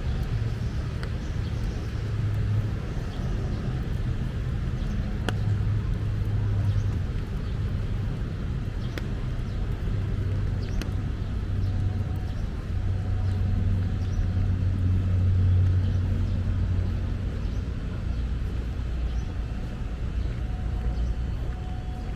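Steady low rumble of city road traffic, swelling a little past the middle as vehicles pass, with a few faint clicks.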